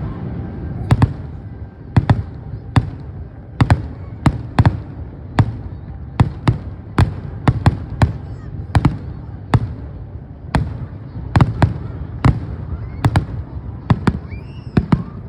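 Fireworks display: sharp bangs of shells bursting in quick, irregular succession, about one to two a second, over a steady low rumble.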